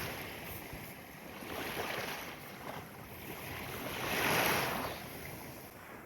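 Small waves washing in at the shoreline, the surf noise swelling and ebbing, loudest about two thirds of the way through.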